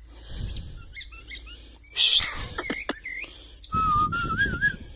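Short bird chirps and whistles, with a loud rustling burst about two seconds in and a wavering whistle near the end, over a steady high insect chirring.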